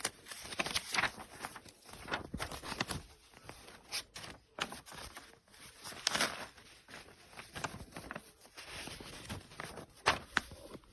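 Irregular clicks, knocks and rustles of the stick vacuum's plastic parts being handled and fitted together, with a sharp click near the end; the motor is not running.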